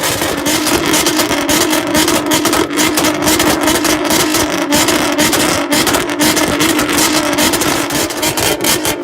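A car engine held at a steady high rev on a two-step launch-control limiter, holding one pitch while the exhaust crackles and pops rapidly and irregularly throughout.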